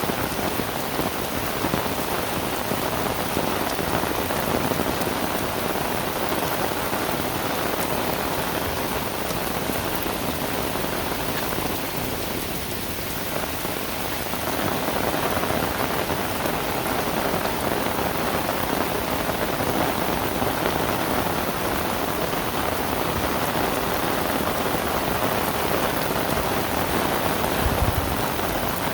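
Heavy rain falling steadily, a dense even hiss, easing slightly for a moment about halfway through.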